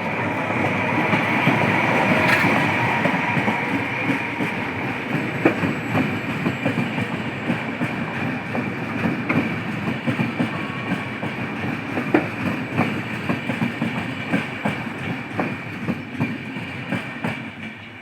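A train passing on the line: a steady rumble with a high whine and the rapid clickety-clack of wheels over rail joints. It is loudest about two seconds in and fades near the end.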